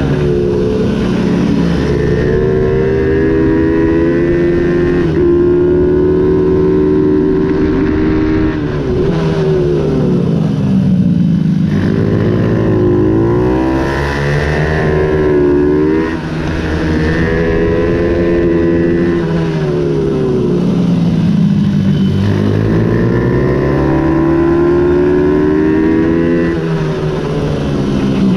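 Ohvale 110 racing minibike's single-cylinder four-stroke engine running hard. The revs climb and fall over and over, dropping sharply several times, as around 11, 16 and 21 seconds in, then rising again through the gears.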